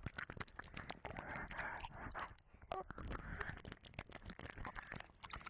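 Close-up wet mouth sounds into a binaural dummy-head microphone: licking with many irregular sharp lip and tongue clicks and smacks, between soft breathy wet patches.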